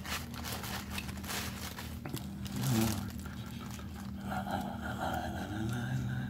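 Close-miked eating noises: mouth and chewing sounds with irregular scraping and rustling as food or packaging is handled next to the microphone. A steady low hum runs underneath.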